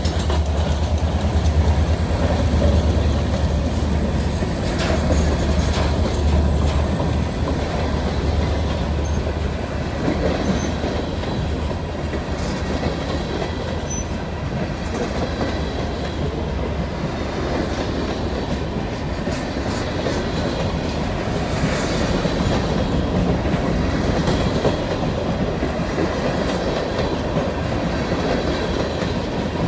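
A freight train's cars rolling past close by, steel wheels clicking and clattering over the rail joints, mostly empty hopper cars along with a gondola and a tank car. A low diesel rumble from the trailing locomotive fades away over the first several seconds.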